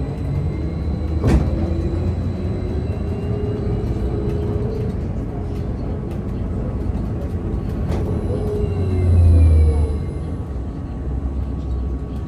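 Cabin ride noise of a VMZ Avangard trolleybus under way: a steady low rumble with faint whines rising and falling in pitch. A sharp knock sounds just over a second in and another about eight seconds in, and the rumble swells briefly near the nine-second mark.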